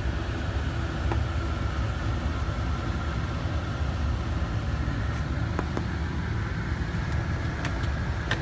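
Steady low rumble of a vehicle, with a faint steady hum above it and a few faint clicks.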